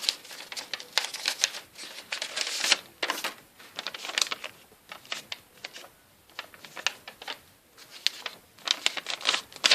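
Folded paper airplanes being handled, their sheets rustling and crackling in quick irregular bursts.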